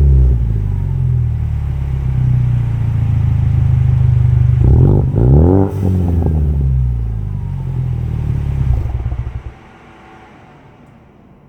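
Engine idling through an MBRP aftermarket performance exhaust, with one quick rev about five seconds in that rises and falls back to idle. The engine shuts off about nine and a half seconds in.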